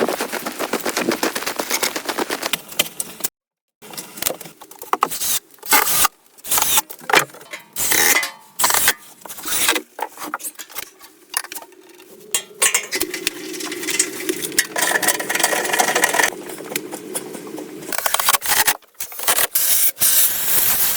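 Scraping and knocking of hand tools on wood, in short stretches broken by abrupt cuts, one of them a brief full silence a few seconds in.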